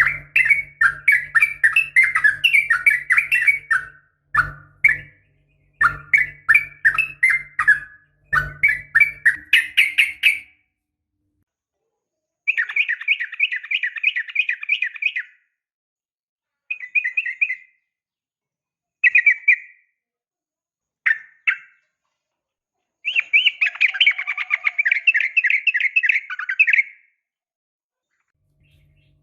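Yellow-vented bulbul (trucukan) calling, in the female call used to draw a male, as phrases of rapid chattering notes. The calls come almost without pause for the first ten seconds over a low hum, then as shorter bursts separated by silences, with one long phrase near the end.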